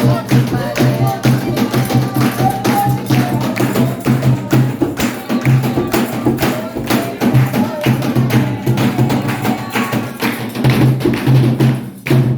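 Candomblé ceremonial percussion: drums beaten in a fast, steady rhythm with sharp, light struck hits over them and voices singing. The beat breaks off briefly near the end.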